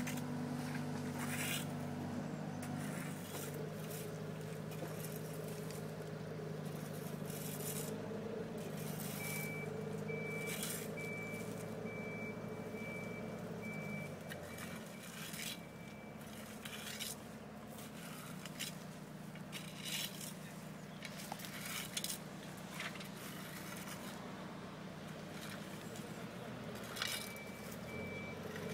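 Engine of a heavy work vehicle running steadily, with a reversing alarm beeping in rapid runs for several seconds midway and again near the end. Scattered knocks and scrapes sound over it.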